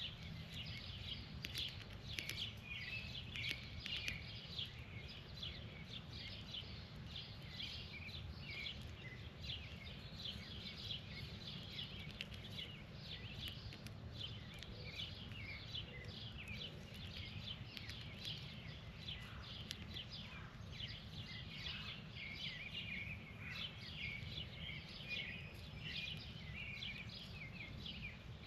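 Many birds chirping steadily: dense, overlapping short chirps over a steady low rumble.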